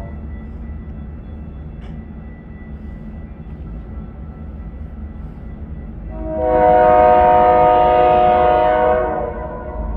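A train running with a steady low rumble. About six seconds in, a locomotive air horn sounds one long blast of several tones at once, lasting about three seconds.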